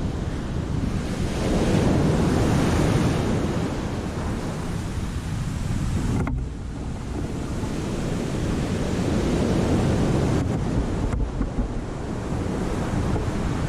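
Sea waves breaking and washing over rocks, with wind rumbling on the microphone. The surf swells twice, about two seconds in and again around ten seconds in, and the sound drops off suddenly about six seconds in.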